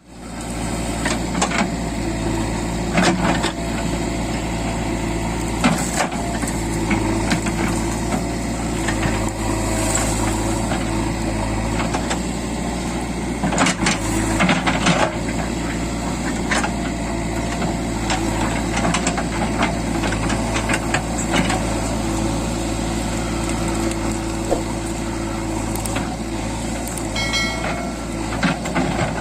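JCB 3DX backhoe loader's diesel engine running steadily under work, with occasional metallic knocks and clanks from the machine.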